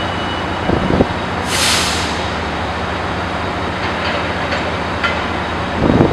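Amtrak electric passenger train rolling slowly over yard trackwork, with a steady low rumble and hum. Heavy wheel clunks come about a second in and again near the end, and a short hiss of air follows the first.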